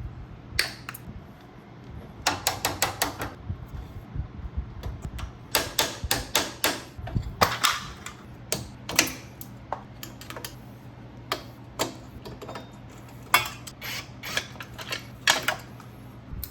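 Hand tools working on a motorcycle being taken apart: sharp metallic clicks, many in quick runs of several at a time, over a steady low hum.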